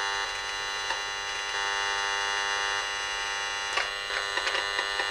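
Steady electronic buzz with many overtones from a handheld RF/microwave meter's audio output, with a few faint ticks near the end; the owner takes the sound for microwave-weapon shots being picked up.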